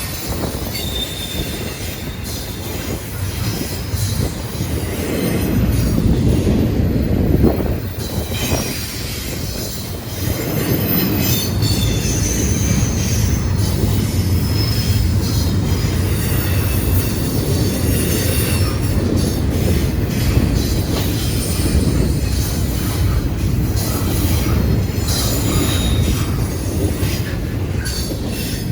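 Freight train cars rolling past on the rails: a steady heavy rumble, with the high squeal of steel wheels on the rail coming and going over it.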